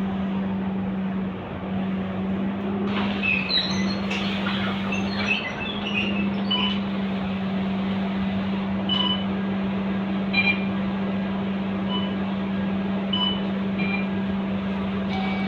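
Scania K230UB single-deck city bus running with a steady hum, with scattered short high chirps and squeaks from about three seconds in.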